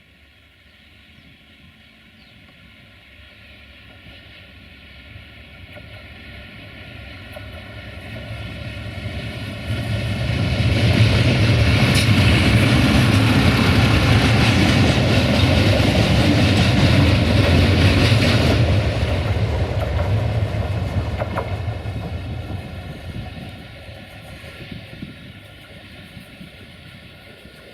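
A train passing close by on the rails. Its noise grows steadily, stays loud for about eight seconds, then fades away.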